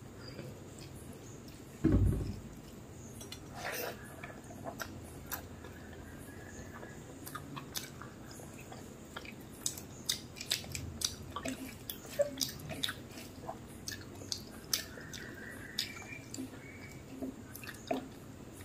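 Close-up eating sounds: chewing with wet mouth clicks and smacks, and fingers squishing rice and curry on a plate, with a run of short sharp clicks through the second half. A single low thump about two seconds in is the loudest sound.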